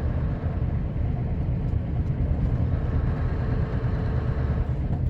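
Sanding truck's engine running steadily as it drives, a low steady rumble mixed with road noise.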